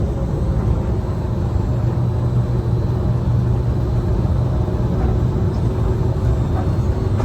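Disneyland Mark VII monorail train running along its beam, heard from inside the driver's cab: a steady low rumble with faint steady tones above it.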